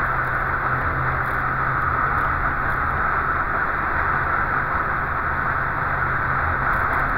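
Volvo 144S's four-cylinder engine running steadily at speed, heard from inside the cabin together with a constant rush of tyre and wind noise.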